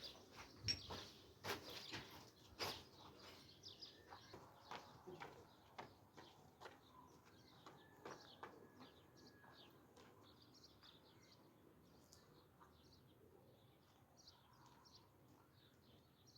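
Faint, rapid chirping of small birds, with several sharp clicks in the first three seconds; the chirping fades gradually.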